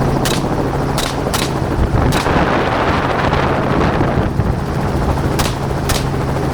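Gunshots fired from a hunting helicopter over the steady drone of its engine and rotor: six sharp shots, four in the first two seconds or so, then a pause and two more close together near the end.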